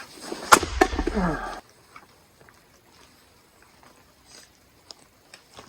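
A single sharp strike about half a second in, a tool splitting a piece of firewood, followed by a brief voice. About a second and a half in the sound cuts off abruptly, leaving low quiet with a few faint clicks.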